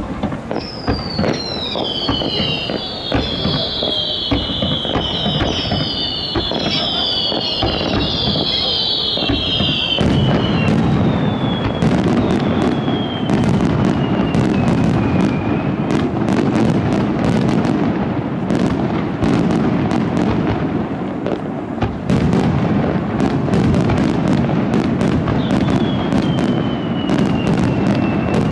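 Fireworks finale barrage: shells bursting in quick succession with dense crackling and a continuous heavy rumble. Many whistling shells overlap in the first ten seconds, each whistle falling in pitch, and a few single whistles follow later.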